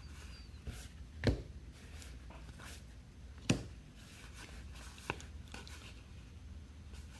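Trading cards and packs being handled on a table: two sharp knocks about two seconds apart, then a lighter click, over a low steady hum.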